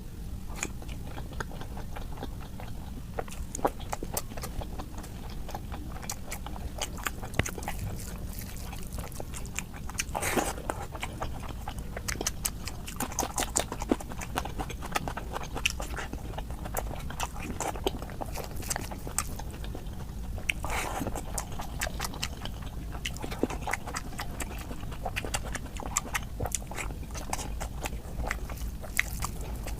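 Close-up chewing and smacking mouth sounds of someone eating curry and rice, a steady run of short wet clicks with a few longer smacks. A low steady hum runs underneath.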